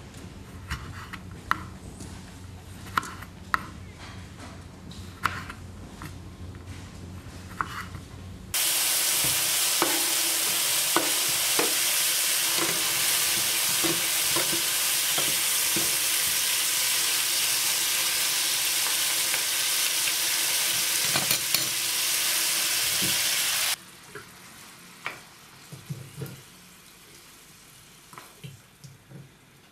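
A knife slicing cherry tomatoes on a wooden cutting board, a sharp knock with each cut. About eight seconds in, a loud steady sizzle takes over: meat strips, leek and tomatoes frying in a pan, stirred with a spatula that knocks and scrapes now and then. The sizzle cuts off sharply about fifteen seconds later, leaving quieter knocks and clinks as the food is tipped from the pan onto a plate.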